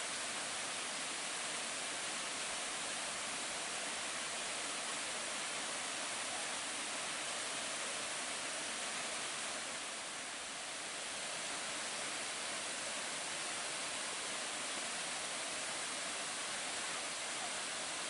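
Uski waterfall on the Bhandan river: a steady rush of falling water that eases slightly for a moment about ten seconds in.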